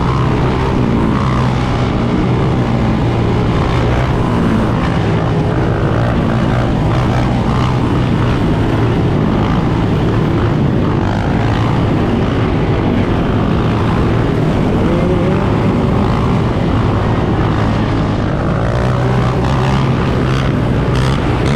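Dirt bike and ATV engines running in a group ride: a steady engine drone throughout, with engines revving up and down over it.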